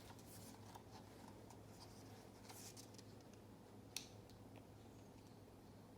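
Near silence: faint rustling of paper book pages being handled, with one sharp click about four seconds in, over a low steady hum.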